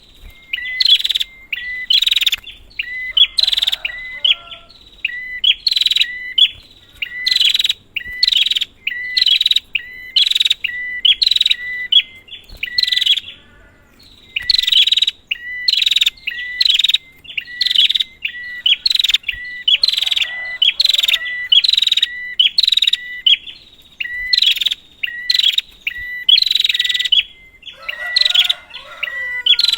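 Prinia (prenjak) calling in loud, harsh, rapid notes, repeated in short clusters about once a second with a few brief pauses.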